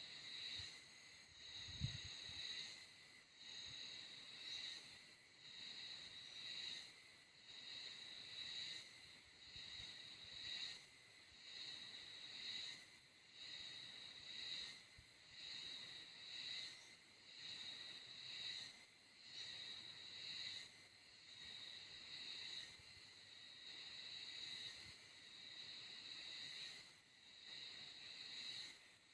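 Insects calling in chorus, a high pulsing trill that swells and fades about once a second. A brief low thump about two seconds in.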